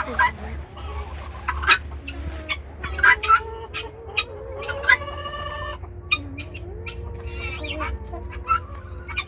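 Chickens clucking and murmuring, with many sharp taps and one louder, higher squawk about five seconds in. A steady low hum runs underneath.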